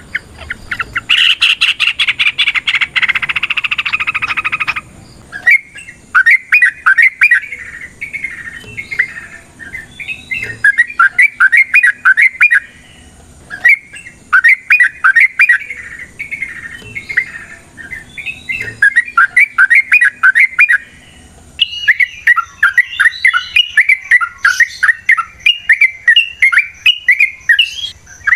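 Yellow-vented bulbul (trucukan) singing a long run of rapid, bubbling chattering phrases. The first few seconds are a denser, louder continuous chatter; after that the song comes in bouts broken by two brief pauses, about halfway and three quarters of the way through.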